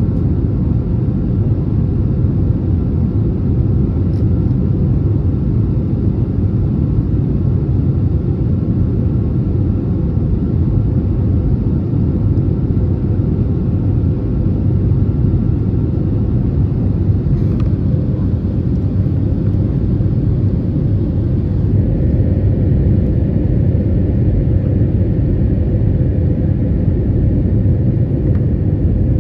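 Cabin noise inside an Airbus A320neo under power: a steady deep rumble of engines and airflow with a faint steady hum above it.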